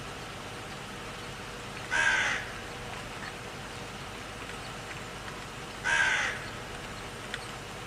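Two short animal calls, about four seconds apart, each about half a second long, over a steady background hiss.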